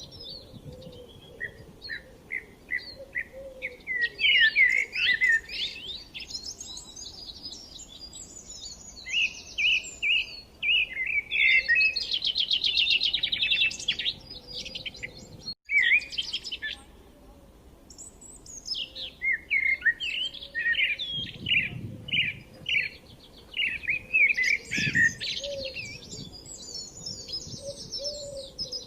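Songbirds chirping and singing, quick trilled and warbled phrases overlapping one another, with short lulls between bursts. The sound cuts out for an instant about halfway through.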